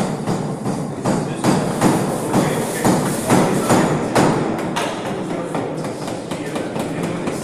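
Hammering during assembly: a run of irregular knocks and thuds, about two to three a second, loudest in the first few seconds.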